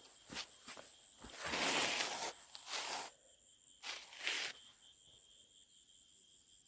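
Insects chirring steadily at a high pitch. Over the first four and a half seconds there are five short rustling noises; the loudest and longest, about a second long, comes near the middle.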